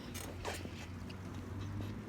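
Bicycle being ridden: faint creaks and light clicks over a steady low hum.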